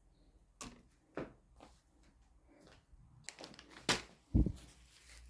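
A series of scattered clicks and knocks from household things being handled, with the loudest, heavy thump about four seconds in.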